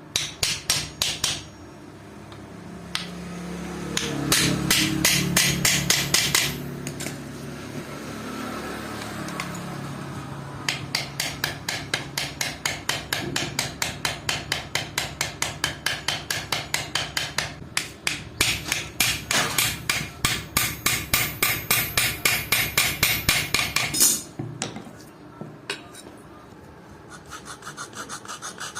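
A hammer striking rapidly and evenly, about four blows a second, in a short run and then a long run of blows with quieter scraping between.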